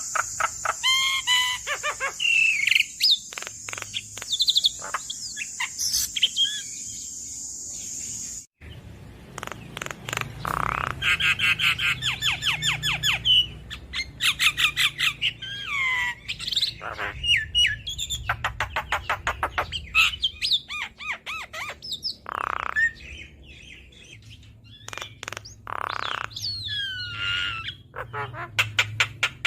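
Javan myna (jalak kebo) singing a varied song of whistles, rapid trills and harsh squawks. For the first eight seconds a steady high cricket-like buzz runs under it, then the sound cuts out briefly and the myna's song goes on without the buzz.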